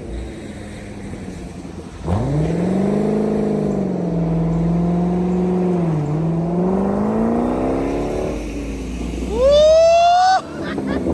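2005 Corvette's LS2 V8 with its mufflers deleted, revved hard: the pitch jumps up about two seconds in and holds, then climbs steeply near the end to its loudest before cutting off suddenly.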